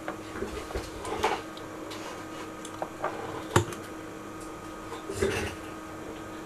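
A few light clicks and knocks of handling at a workbench, the sharpest about three and a half seconds in, over a steady low hum.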